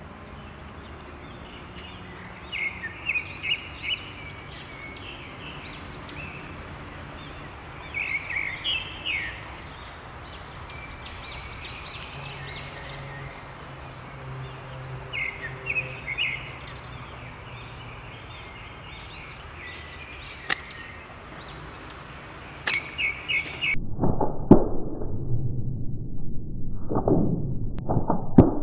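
Birds chirping in short repeated phrases over steady outdoor background noise, with two sharp clicks near the end. In the last few seconds the sound changes suddenly to a louder, muffled passage with several thumps.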